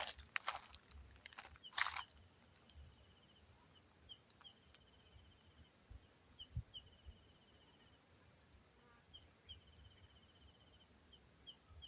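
A few crunching steps on dry forest litter in the first two seconds, then an insect's rapid high trill repeating in stretches of about a second or more, with short single chirps between.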